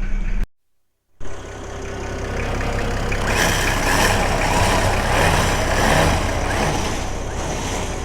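Old truck's engine running at idle, broken by a short cut just after the start. From about three seconds in, a louder, rougher swell builds and eases off again near the end.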